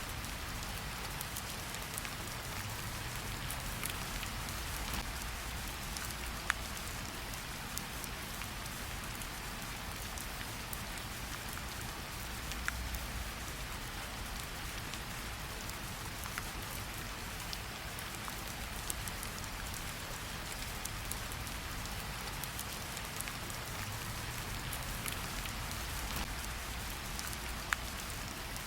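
Steady rain falling on a surface, with scattered individual drops hitting close by.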